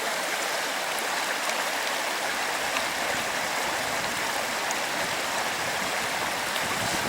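Turbulent mountain river rushing steadily, an even hiss of fast-flowing water.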